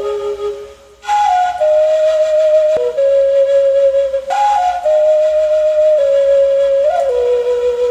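Slow flute melody of long held notes stepping up and down, with a brief break about a second in.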